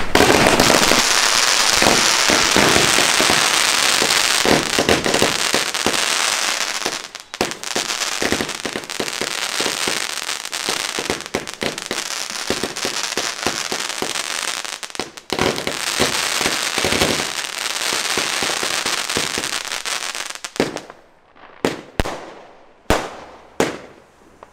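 Multi-shot firework barrage firing: a dense, rapid run of bangs and crackling for about twenty seconds, then a handful of separate bangs about a second apart near the end.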